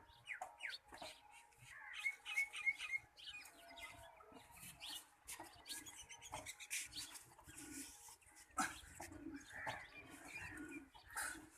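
Faint bird chirps, short and scattered, with a few small clicks.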